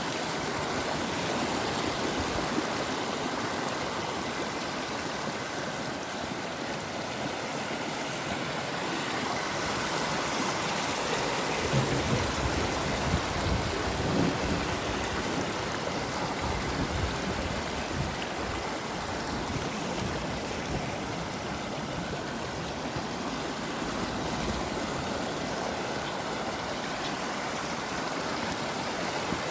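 Steady rushing of flowing water from a mountain stream or waterfall, with a few low thuds near the middle.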